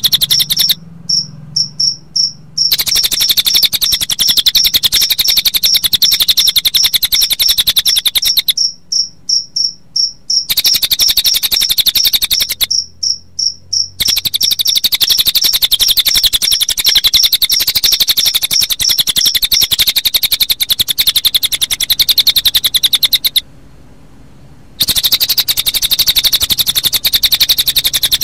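Recorded cililin song layered with cricket chirping: a very fast, high-pitched trilling pulse train that keeps breaking off abruptly for a second or two and then resumes, like an edited loop.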